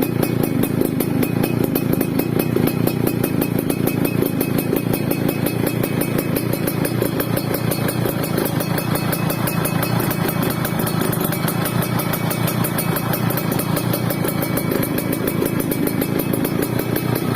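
Yamaha F1ZR's single-cylinder two-stroke engine idling steadily through an MDN racing-style aftermarket exhaust, with a fast, rough putter.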